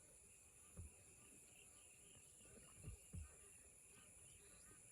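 Near silence with a faint, steady, high insect drone, broken by a few soft low bumps.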